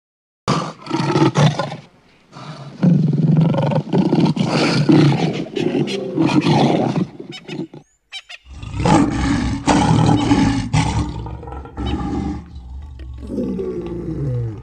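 Lion roaring, in two long stretches with a short break about eight seconds in.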